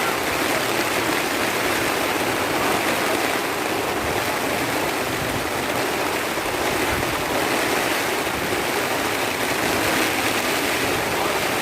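Heavy rain pouring down in a steady, loud rush of water.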